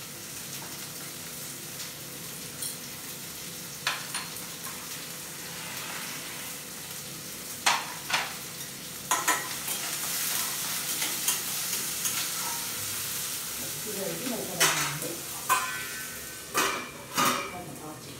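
Chopped onion, garlic and carrot sizzling in hot oil in a steel pan as they are stirred with a metal spatula. The frying makes a steady hiss, and the spatula scrapes and clinks against the pan about eight times at irregular moments.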